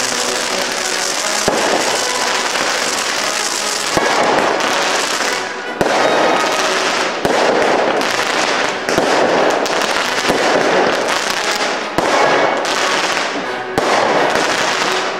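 Fireworks going off: a continuous hiss from spraying fountains and rising shells, broken by sharp bangs every second or two as shells burst.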